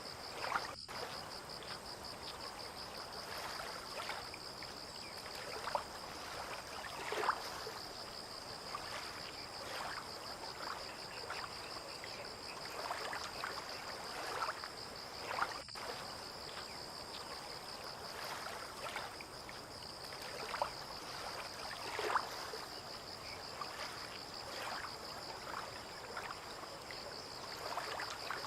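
Harbour water lapping and sloshing in irregular small splashes, over a steady, high, rapidly pulsing insect trill.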